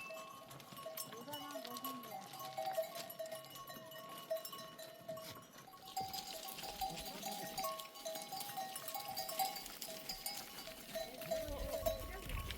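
A flock of sheep with bells ringing irregularly as the animals move, and an occasional bleat.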